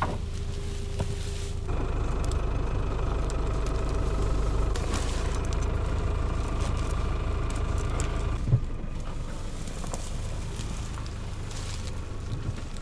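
A truck engine running. It steps up to a louder, higher, steady note about two seconds in and eases back down after a sharp knock near nine seconds.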